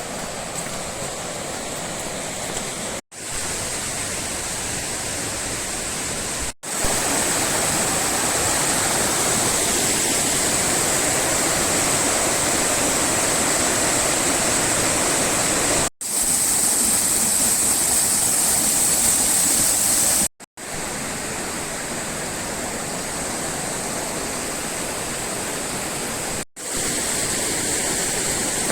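A fast, full mountain river rushing over rapids, a steady loud rush of water. It drops out for an instant at each of several cuts, and its loudness shifts from one shot to the next.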